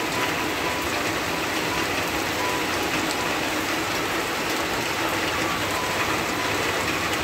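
Heavy rain pouring steadily: a dense, even hiss of drops hitting the wet road.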